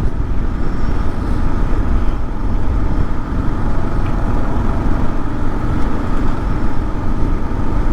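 Kawasaki KLR650's big single-cylinder engine running under way, mixed with steady wind and road noise.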